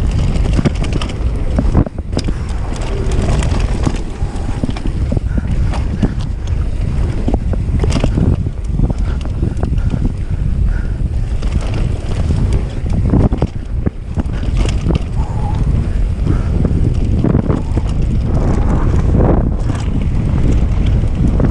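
Wind buffeting the microphone of a mountain bike moving fast on a dirt track, with the bike's rattles and knocks over bumps throughout.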